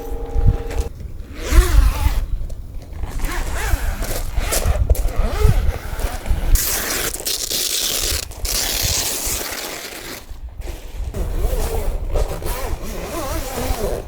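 Irregular scraping and rustling of things being handled, in uneven stretches with short pauses. A low steady hum stops about a second in.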